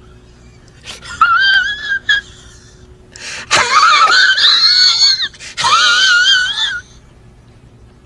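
A meme sound effect of high-pitched, wheezing squeals with a wavering pitch. It comes in three bursts: a short one about a second in, the loudest in the middle, and a last one near the end.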